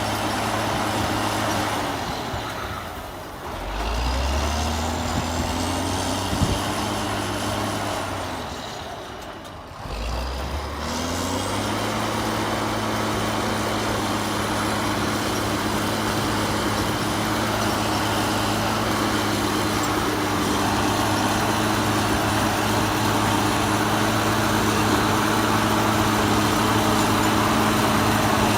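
Heavy diesel engine running steadily. Twice, about three and nine seconds in, the sound dips almost away and the engine note comes back rising.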